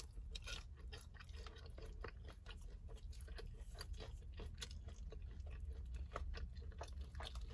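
A person chewing battered honey chicken with a closed, faint, wet smacking, many small irregular mouth clicks, over a low steady hum.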